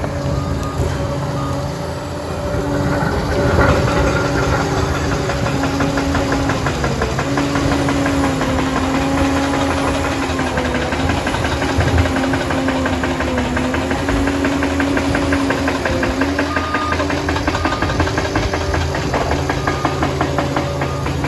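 Liebherr 746 crawler dozer working: its diesel engine runs under varying load, the note dipping and rising, over a continuous fast mechanical clatter.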